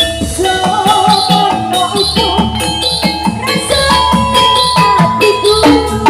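Music from a Javanese barongan troupe's ensemble, loud through a sound system: a steady beat with many quick metallic struck notes and held pitched tones.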